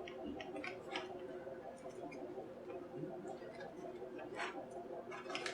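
Scattered light clicks and taps of small parts being handled while a JBL Flip 2 Bluetooth speaker is taken apart, over a steady low hum.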